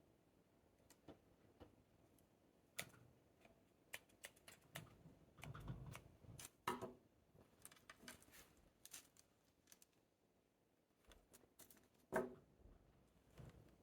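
Faint, scattered clicks, taps and light rustles of succulents and potting soil being handled while a mixed planting is assembled. A low rumble comes in about five seconds in, and a sharper tap sounds about twelve seconds in.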